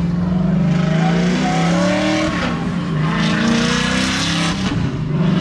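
Car engines revving and accelerating hard, their pitch rising and falling, with a rush of tyre and exhaust noise through the middle of the stretch.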